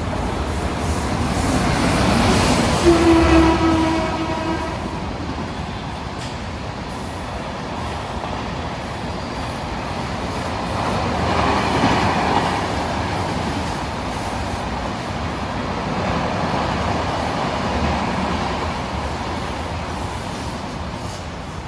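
Indian Railways electric locomotive horn sounding once, a steady pitched blast of about a second and a half, about three seconds in. An express train's wheels run past at speed throughout, louder around the middle and again later, easing off near the end.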